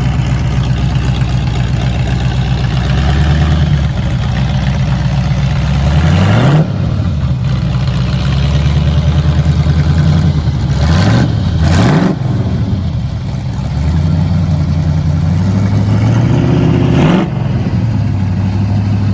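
1972 Camaro Z28's V8 idling loud with its exhaust cut off, shortly after a cold start, blipped up and back down a few times: once about six seconds in, twice in quick succession around eleven to twelve seconds, and once more near the end.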